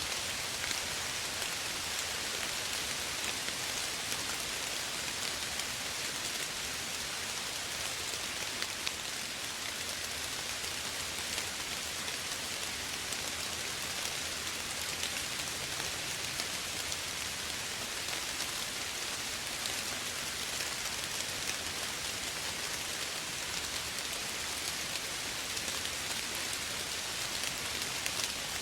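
Steady soft rain falling, an even hiss with many small drops pattering on a surface.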